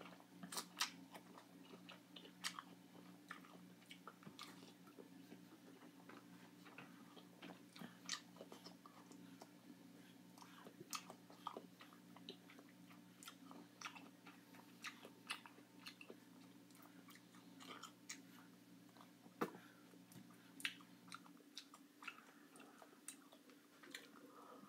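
Faint chewing and biting of juicy pineapple chunks close to the microphone: irregular wet smacks and clicks. A low steady hum underneath stops about 21 seconds in.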